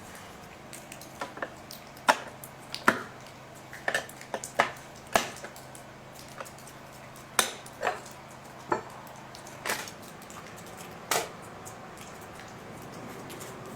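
Irregular clicks and knocks of hands and tools handling the plastic covers and parts of a chainsaw that is switched off. A faint low steady hum lies behind them and stops about ten seconds in.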